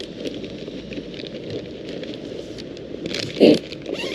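Rustling, scraping and small clicks from handling a food order being packed into an insulated delivery bag, with one louder knock about three and a half seconds in.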